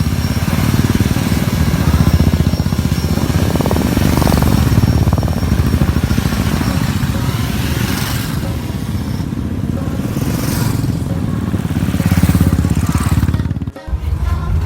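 Several motorcycle engines running close by, a loud, steady mass of engine noise with rapid pulsing, broken off briefly by a sudden gap near the end.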